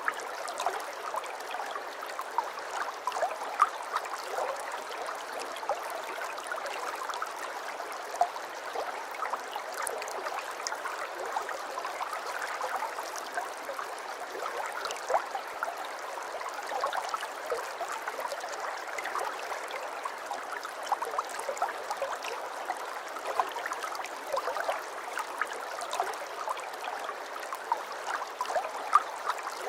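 Aquarium water trickling and bubbling steadily, with many small bubble pops and splashes.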